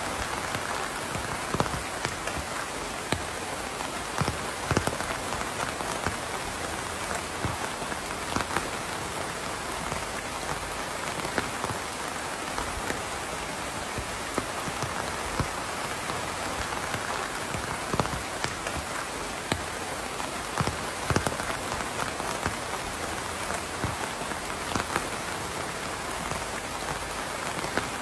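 Steady rain falling on a surface, with a constant hiss and many separate louder drops hitting at irregular moments.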